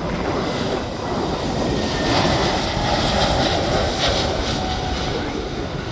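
Jet airliner taking off, its engines at takeoff thrust making a loud, broad rushing noise that swells about two seconds in and eases slightly near the end.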